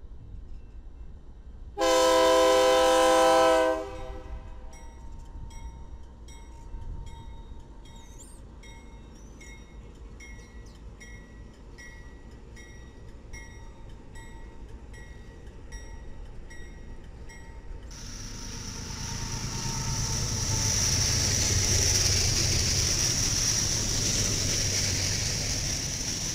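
A GE Dash 9-44CW locomotive's air horn sounds one loud blast of about two seconds, a couple of seconds in. A bell then rings steadily about once a second. Later a freight train of boxcars and covered hoppers rolls past with loud wheel-and-rail noise and a high hiss, ending abruptly.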